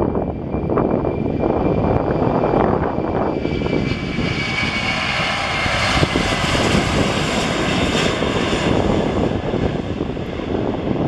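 Jet engine noise from a Boeing 747-400's four turbofans at takeoff power: a high whine over a rumble, swelling from about three and a half seconds in and fading near the end. Wind buffets the microphone throughout.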